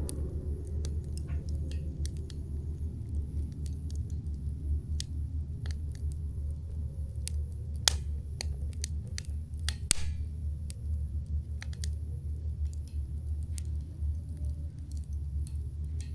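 Wood campfire burning, with irregular sharp crackles and pops over a low rumbling hiss; the loudest pops come about eight and ten seconds in.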